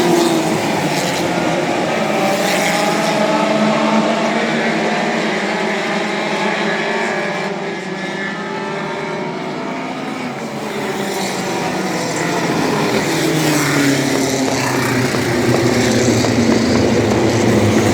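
Several midget race car engines running on the track, their pitch rising and falling as the cars pass.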